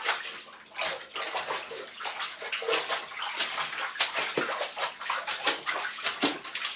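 Water sloshing and splashing in a bathtub as wet laundry is squashed and worked through it, in irregular splashes a few times a second.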